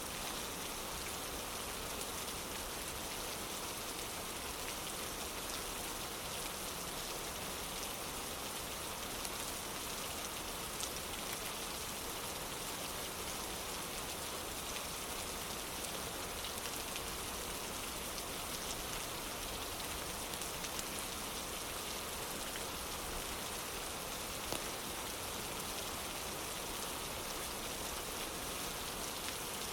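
Steady rain falling, an even hiss with occasional faint ticks of drops.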